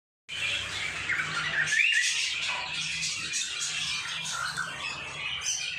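Pet birds squawking and chirping in quick, overlapping calls, starting a moment in.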